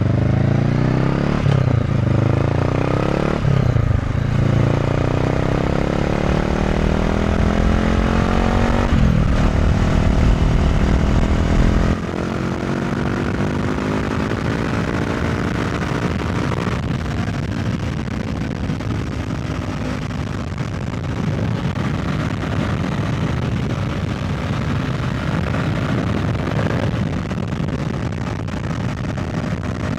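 2017 Honda CB500F parallel-twin through an SC Project Conic titanium end silencer, accelerating with the revs climbing and breaking off at each upshift. About twelve seconds in it drops to a quieter, steadier run at lower revs, with wind noise on the microphone.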